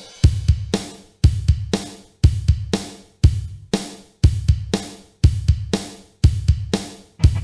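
Instrumental song intro: a steady uptempo drum-kit beat, with bass drum and snare hits and hi-hat, its pattern repeating about once a second.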